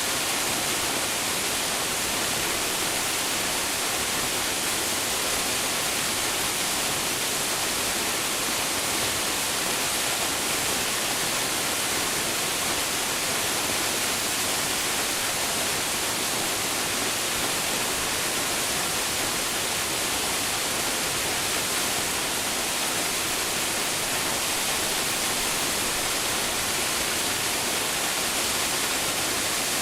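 Waterfall plunging into its pool: a steady, unbroken rush of falling water, strongest in the high hiss.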